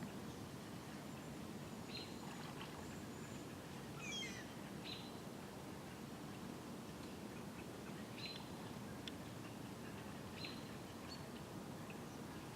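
Birds calling: scattered short, high chirps, with one quick falling call about four seconds in, over steady low background noise.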